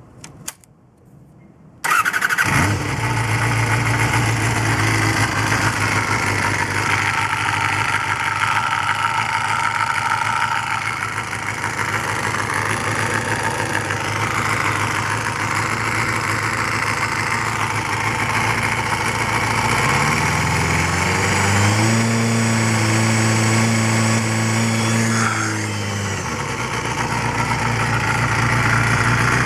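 Honda Jade MC23's MC14E 250cc inline-four motorcycle engine starting, catching about two seconds in and settling to a steady idle. Later it is revved up, held at higher revs for a few seconds, then drops back to idle.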